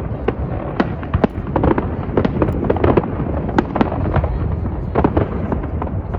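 Fireworks display in full swing: a rapid, irregular run of bangs and crackles from shells bursting, several a second, over a continuous low rumble.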